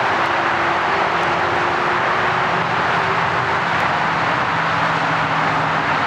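Jet engines of a Boeing 747-400 airliner running on the runway, a loud steady rush of engine noise with faint humming tones that slowly drift lower.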